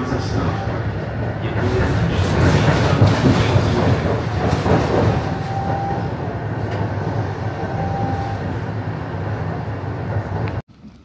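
Ride aboard an electric city transit vehicle: a steady low rumble with clatter and a faint, thin motor whine. The sound cuts off abruptly near the end.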